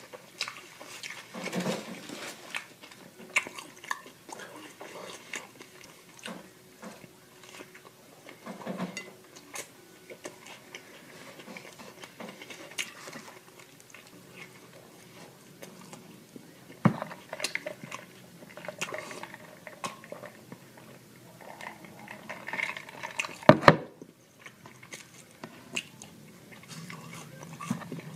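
Close-miked chewing and biting of food: irregular wet mouth clicks and crunches, with a sharper, louder knock about twenty-three seconds in.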